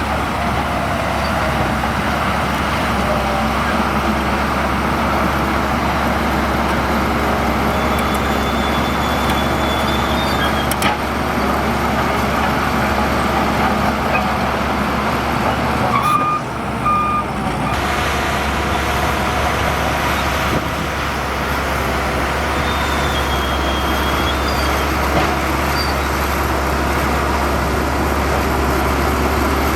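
Diesel engine of heavy earthmoving machinery running steadily, with a reversing alarm giving two short beeps a little past halfway.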